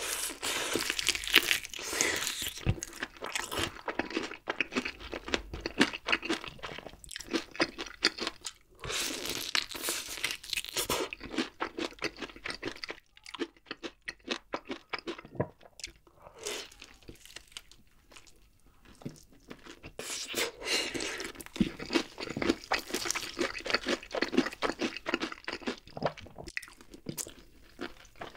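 Close-miked crunching and chewing as bites are taken from crispy honey-glazed fried chicken dipped in cheese sauce. It is loud and crackly for the first dozen seconds, softer chewing follows in the middle, and the crunching picks up again for the last several seconds.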